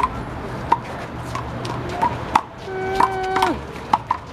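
Rubber handball being smacked by open palms and striking the wall in a rally: sharp slaps roughly every half second. About three seconds in, a voice holds one long call that drops off at its end.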